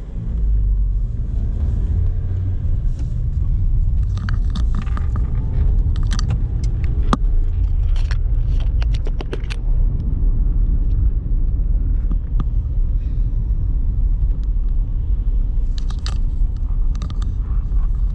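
Car driving, heard from inside the cabin: a steady low road and engine rumble, with brief clusters of small clicking and jangling rattles a few seconds in and again near the end.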